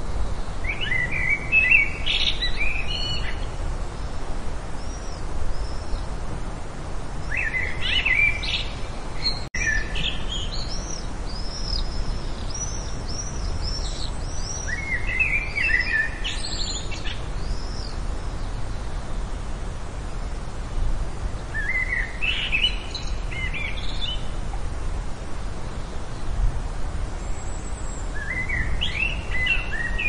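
Birds singing: short warbling phrases every few seconds, with thinner, higher chirps between them, over a steady background hiss. The sound drops out briefly a little under ten seconds in.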